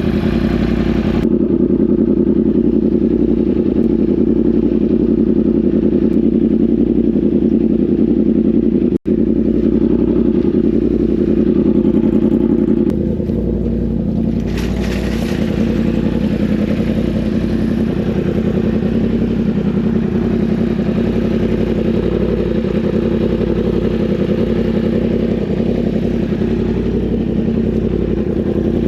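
Yamaha R1 sportbike's inline-four engine running steadily while ridden, dropping slightly in level about thirteen seconds in. The sound cuts out for an instant about nine seconds in.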